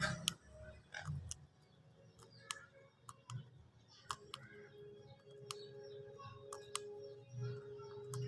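Irregular sharp clicks and taps, roughly one a second, with a faint steady hum starting about four seconds in.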